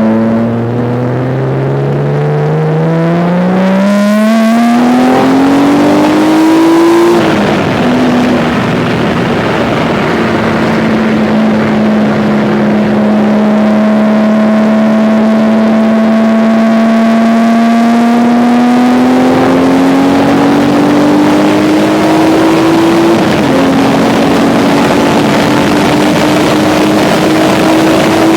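Mazda 323F's KL-ZE 2.5-litre V6 under hard acceleration. The pitch climbs steeply and drops sharply about seven seconds in, as at a gear change. It then climbs slowly in a high gear with rising road and wind noise, drops again near the end and climbs once more.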